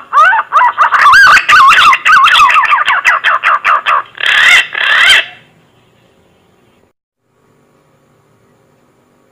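Green pigeon (punai) song played as a hunting lure: a run of loud, wavering, warbling whistles that stops about five and a half seconds in, followed by a faint hum.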